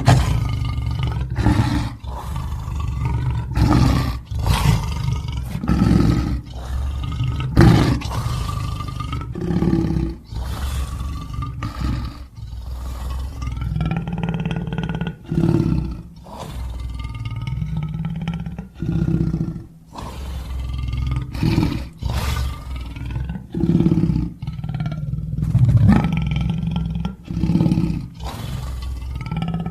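Lion roaring and growling in a long run of short, deep calls, about one every one to two seconds.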